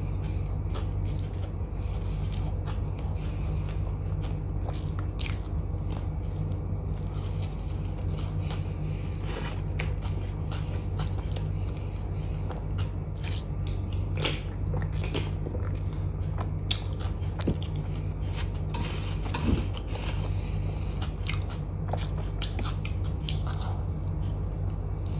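Close-miked biting and chewing of a vada pav, a soft bread bun with a potato fritter, with short mouth clicks scattered throughout over a steady low hum.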